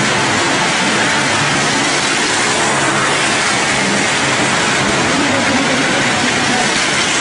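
Small hatchback car's engine running steadily as it circles the vertical wall of a well-of-death drum, under a dense, even noise.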